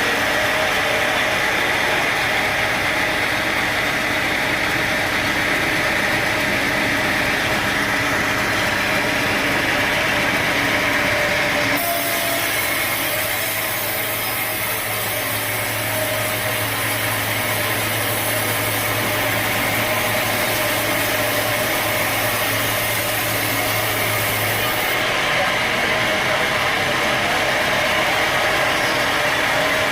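Sawmill machinery running steadily, a loud mechanical drone; the sound changes abruptly about twelve seconds in, adding a low steady hum and a high hiss, and changes back about twenty-five seconds in.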